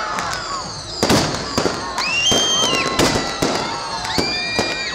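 Fireworks display going off, a rapid, irregular series of sharp bangs several times a second, with high whistling tones gliding among them.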